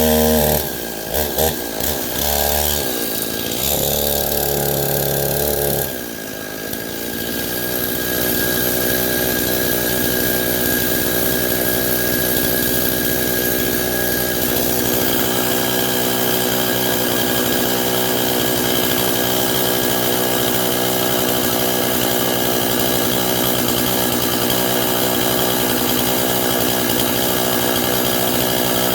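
Stihl chainsaw on an Alaskan chainsaw mill, ripping lengthwise through a pine log. For the first few seconds the revs rise and fall, dipping about six seconds in, and from then on the engine holds steady at high revs under load through the cut.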